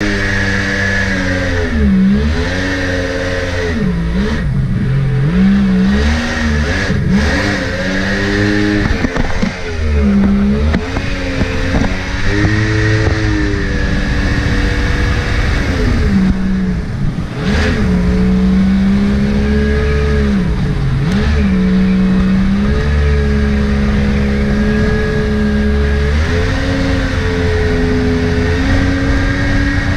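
Mini jet boat's Yamaha 1100 engine running and being revved, its pitch dropping and climbing again several times with the throttle, then holding a steadier, higher speed over the last several seconds.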